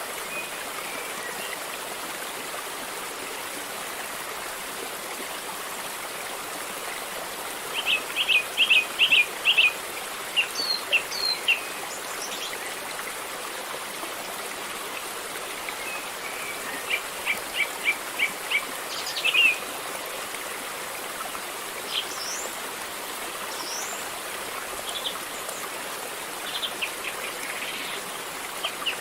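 River water flowing steadily, with a bird calling over it: two quick runs of short, sharp notes, about a third of the way in and again just past halfway, then a few scattered chirps.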